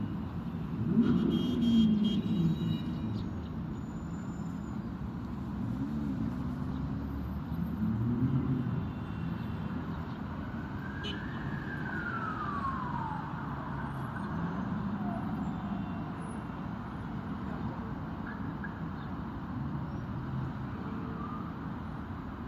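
Street traffic noise with vehicles passing. A single falling, whistle-like glide comes about eleven seconds in.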